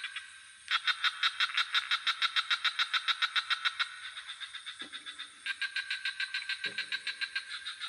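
Night swamp chorus of frogs and insects: bouts of rapid pulsed calls, about seven a second, over a steady high insect trill. Two short, deep frog croaks come about five and seven seconds in.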